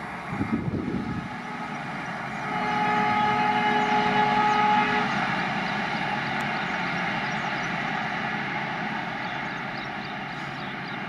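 Passing express train: wheel clatter from its last coaches in the first second or so, then a distant multi-tone locomotive horn held for about two and a half seconds, over a steady rumble that slowly fades as the train draws away.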